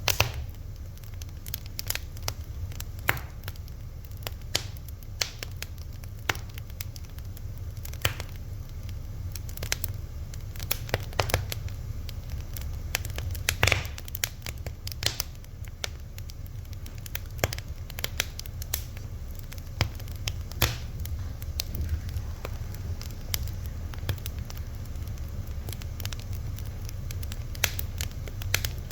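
Fire crackling: irregular sharp pops and snaps, several every few seconds, over a steady low rumble.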